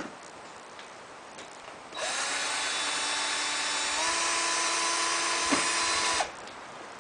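Power screw gun (electric drill-driver) running for about four seconds as it drives a screw, its motor whine stepping up in pitch about halfway through before it stops.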